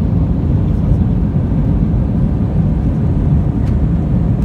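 Steady low rumble of jet engines and rushing air heard inside an airliner cabin.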